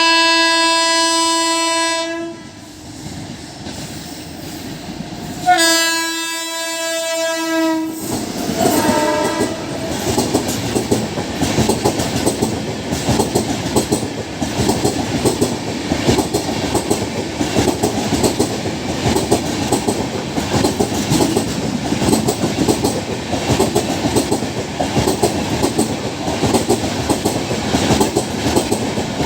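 WAP-7 electric locomotive's horn sounding two long blasts a few seconds apart and then a short third, followed by the steady rumble and clickety-clack of the express's coaches running past.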